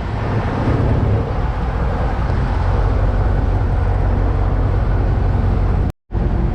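Khlong Saen Saep canal boat's engine running steadily under way, a low drone with the rush of water and wind over it. The sound cuts out completely for a moment about six seconds in.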